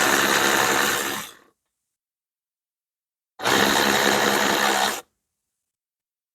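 Cordless power driver running in two bursts of about a second and a half each, a few seconds apart.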